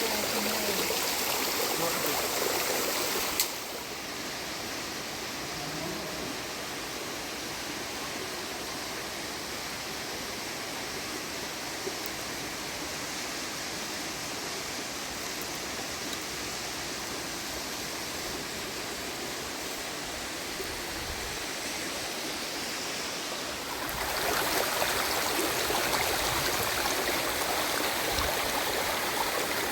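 Waterfall water rushing steadily. It is louder for the first few seconds, drops abruptly with a click a few seconds in, and steps back up near the end.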